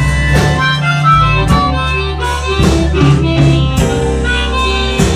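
Live blues band playing, with many instruments sounding together and sharp drum strokes through the music.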